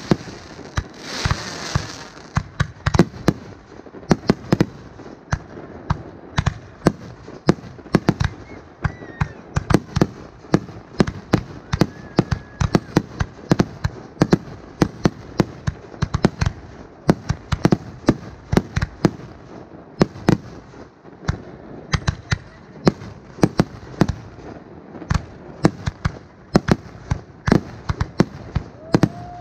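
Fireworks show: a rapid, continuous run of sharp bangs from aerial shells bursting and tubes firing, with a brief hissing rush about a second in.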